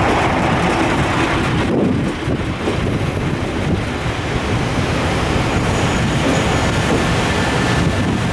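Container freight train hauled by an EF510 electric locomotive running along the track, a steady heavy noise with a brief dip about two seconds in, with wind on the microphone.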